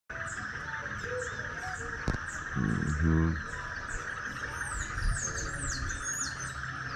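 Morning outdoor ambience of small birds chirping, with quick high falling calls that grow busier in the second half, over a steady insect drone. A short low pitched sound about three seconds in is the loudest moment.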